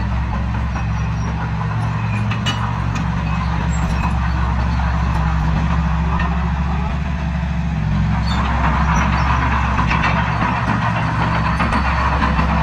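Heavy diesel earthmoving machinery running steadily under load, its engine note low and constant, with a higher, noisier layer growing louder about eight seconds in.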